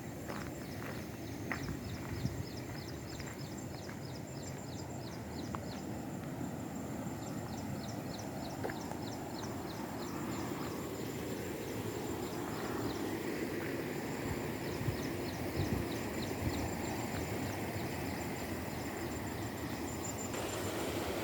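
Outdoor ambience: a steady low rumble, a thin high steady tone, and runs of rapid high chirps that start and stop several times. The rumble grows a little louder about halfway through.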